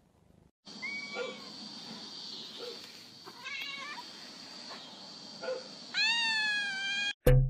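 Domestic cat meowing: a couple of short mews, then one long, drawn-out meow near the end, over a steady high hiss.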